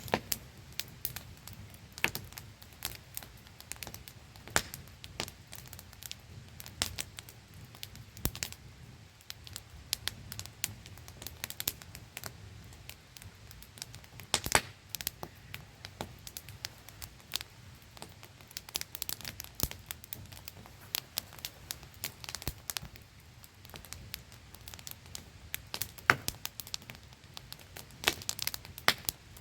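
Wood campfire crackling, with irregular sharp pops and snaps, a few louder than the rest. Under it a steady hiss from a small waterfall.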